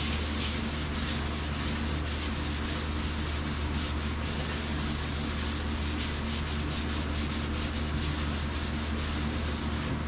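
Sandpaper being worked by hand over the painted sheet metal of a vehicle cab roof, in quick back-and-forth strokes about four a second, scuffing the paint smooth. A steady low hum runs underneath.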